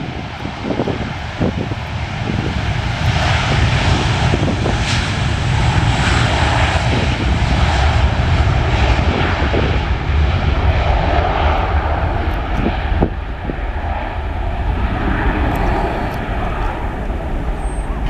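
Jet airliner engines running, a steady heavy rumble with a broad roar that swells a little in the middle.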